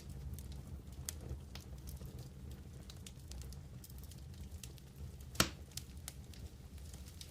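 Wood campfire burning: scattered small crackles and one louder pop about five seconds in, over a low steady rumble.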